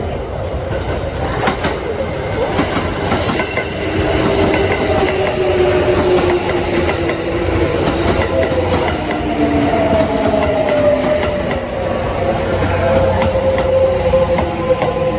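Kintetsu 1436- and 1620-series electric train moving through the station, its traction motors whining and falling slowly in pitch as it slows, with wheels clicking over rail joints.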